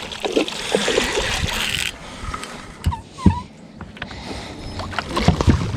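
Water splashing and churning for about two seconds as a striped bass is landed in the shallows, then a few knocks and a short high chirp.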